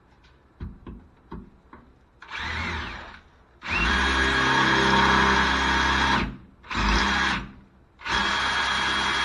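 An electric drill drilling a hole through the Suburban's cross member for an exhaust hanger. A few light clicks come first, then the drill motor runs in short bursts and, from about eight seconds in, steadily.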